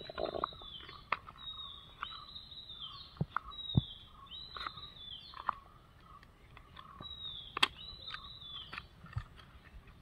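A bird calling over and over, a high note that dips and falls, repeated about once a second with a pause midway. Sharp clicks and taps of a cardboard box being handled run through it, the loudest a little past halfway.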